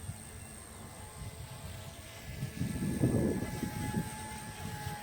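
Align T-Rex 150X micro RC helicopter in flight: the thin, steady whine of its electric motor and rotors, under rumbling wind buffeting the microphone, with a stronger gust about halfway through.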